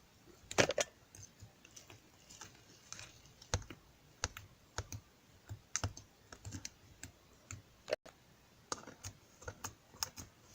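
Light clicks and taps at an uneven pace, several a second, like fingers on keys or a hard surface.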